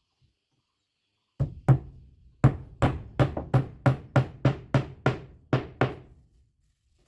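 Hammer blows on wood: about a dozen sharp strikes, two at first and then a steady run of roughly three a second, each with a short low ring, typical of knocking the joints of a wooden window frame together.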